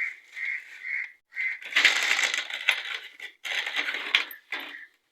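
Small metal engine parts clinking and rattling as they are handled, a few light chinks first, then two spells of dense clatter.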